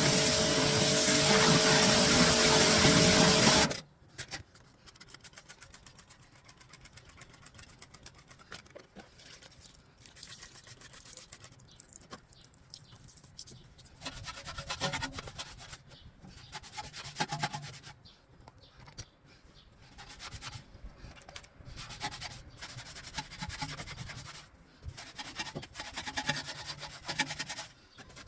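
Music for about the first four seconds, cutting off suddenly. Then faint, irregular scrubbing and rubbing of a surface, in uneven bouts, a little louder in the second half, as cleaning work on a car gets under way.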